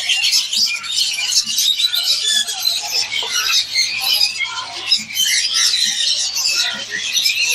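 Many small caged birds chirping and twittering together, a dense, continuous chatter of short high calls.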